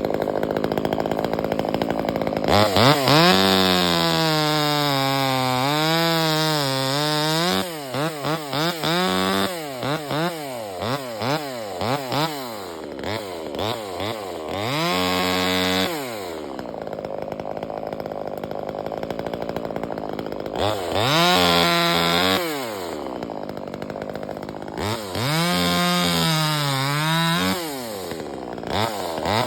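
Chainsaw engine revved hard several times and dropped back to idle in between, its pitch wavering while held at high revs, with a run of quick throttle blips in the middle.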